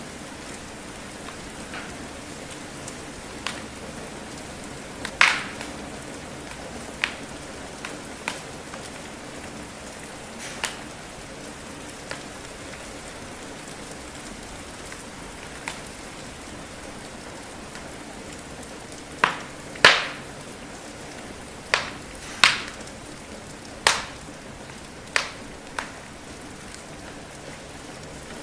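Steady rain hiss with a wood fire crackling: sharp, irregular pops, a few scattered at first and then a quick cluster of louder ones in the second half.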